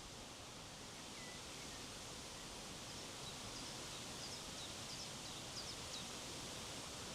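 Steady wind blowing, an even hiss, with a short run of faint, high bird chirps from about three to six seconds in.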